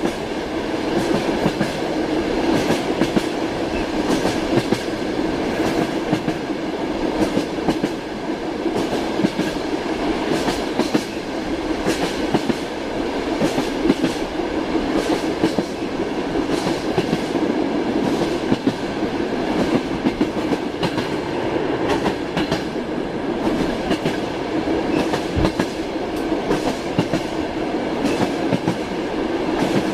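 Clickety-clack of a moving passenger train's wheels knocking over rail joints, with the steady rumble of the carriage, heard from inside a sleeping compartment.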